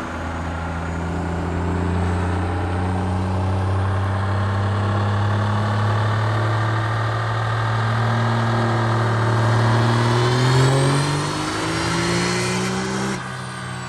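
Compound-turbocharged diesel pickup engine accelerating on a chassis dyno, its pitch climbing steadily, stepping once as it shifts about eleven seconds in, with a rising turbo whine near the end before it lets off suddenly.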